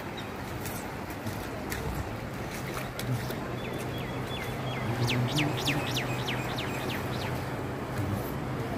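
Steady outdoor background noise with a low engine-like hum, and a quick run of short, falling, bird-like chirps about halfway through.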